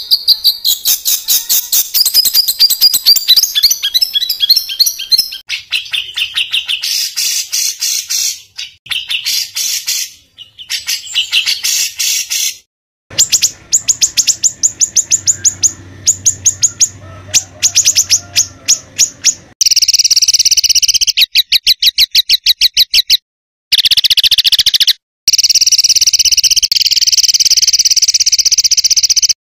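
Songbird song of harsh, rapid-fire repeated notes and fast rattling trills: the 'tembakan kasar' phrasing played as a tutoring recording for caged songbirds. It is cut into segments by a few abrupt short silences, and two long buzzy trills come in the second half.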